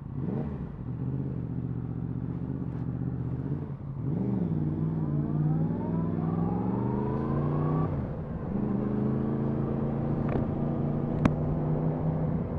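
Yamaha MT-10 SP motorcycle's crossplane inline-four engine under way: steady for a few seconds, then revs rising through a gear for about four seconds before dropping at a gear change, then running steadily again.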